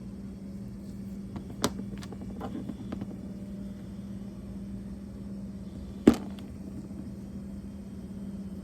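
Small plastic trim pieces being handled and fitted: a few light clicks and taps in the first three seconds and one sharp click about six seconds in, over a steady low hum.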